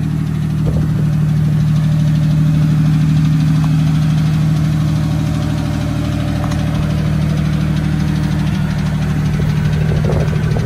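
1994 GMC Sierra 1500's 4.3-litre V6 idling steadily, its exhaust a little loud on the muffler with no catalytic converters.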